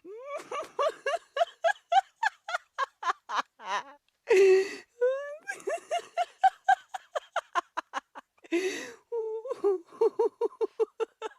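Young women laughing hard: long runs of quick, high-pitched ha-ha pulses, about five a second, broken twice by a louder breathy outburst.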